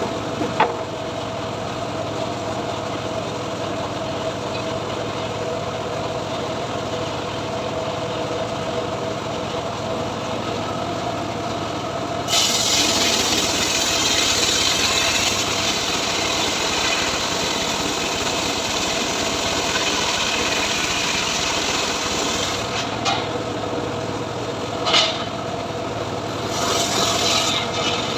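Homemade engine-driven srekel saw running steadily, and from about twelve seconds in its blade cuts into mahogany wood, giving a louder, brighter sawing noise that eases off and returns in short bursts near the end.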